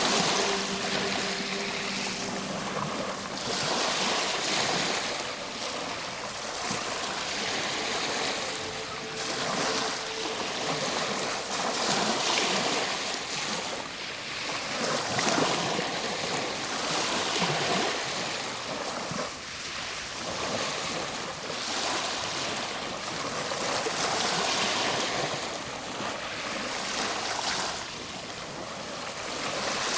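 Ocean surf breaking and washing up the shore, swelling and fading every three to four seconds. Faint held music notes sound under it at the start and again about a third of the way in.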